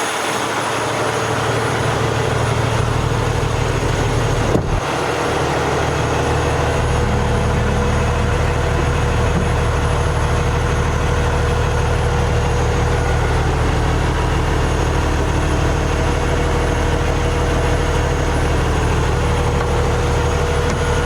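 Cummins ISX diesel engine of a dump truck idling steadily, at a raised idle as it warms up after a cold start. A single sharp knock about four and a half seconds in.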